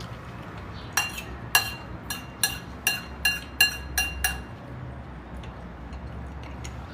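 Cutlery clinking against a bowl about nine times in quick succession, each strike ringing briefly, while scooping up stew; the clinking stops a little past the middle.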